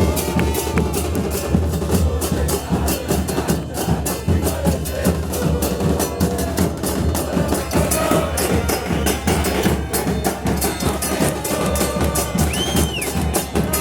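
Bass drums and snare drums of a football supporters' drum band beating a fast, steady rhythm.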